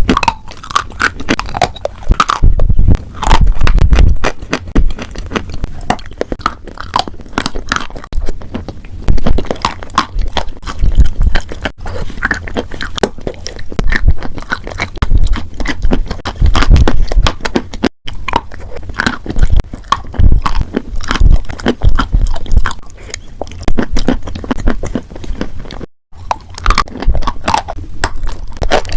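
Close-miked ASMR chewing and biting of crunchy food: loud, irregular crunches and crackles, with two brief breaks partway through.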